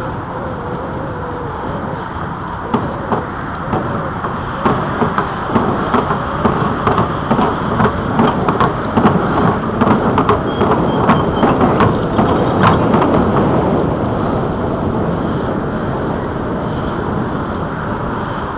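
Bicycle riding along a trail: steady rolling and wind noise, with a run of irregular clicks and rattles from about three seconds in that fades out about fourteen seconds in.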